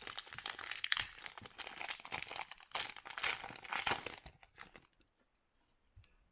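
Crinkling and rustling of a trading-card pack wrapper and cards being handled, for about five seconds before it stops, leaving only a couple of faint clicks.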